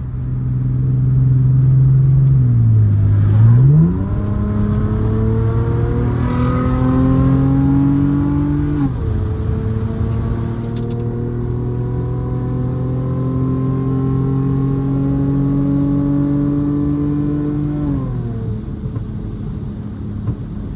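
Straight-piped exhaust of a 2009 Mercedes-Benz C350's 3.5-litre V6 pulling through the gears. The note dips and jumps back up about three seconds in, then climbs slowly in pitch and drops at a gearshift about nine seconds in. It climbs again and falls away as the throttle is lifted near the end.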